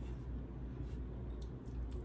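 Quiet mouth sounds of eating: a few faint, soft wet clicks of chewing over a steady low hum.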